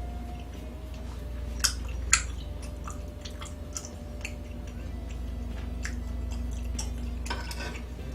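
A person eating: chewing, with scattered short clicks and two sharper clicks about one and a half and two seconds in, over a steady low hum.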